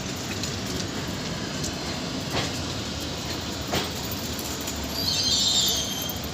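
A train running on the rails: a steady rumble with single sharp wheel clicks over rail joints, spaced more than a second apart, and a brief high-pitched sound about five seconds in.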